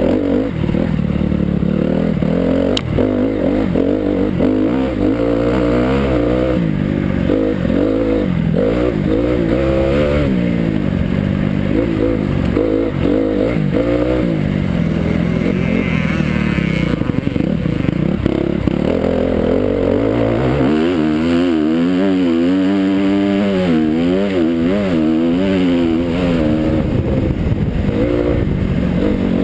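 Motocross bike engine, picked up by an onboard GoPro, revving up and dropping back over and over as it is ridden, with a run of quick rev swings about two-thirds of the way through.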